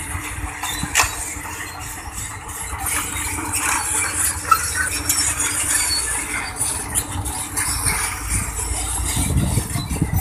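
Sany SR150C rotary drilling rig travelling on its crawler tracks: engine running under a steady metallic clatter from the undercarriage, with a few sharp knocks, the loudest about four and a half seconds in.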